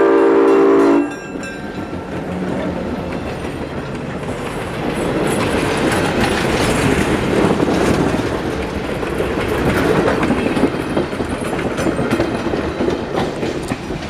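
Train horn sounding a chord, cut off abruptly about a second in, followed by a train running past with a steady rumble and clattering wheels over the rail joints, swelling and then easing.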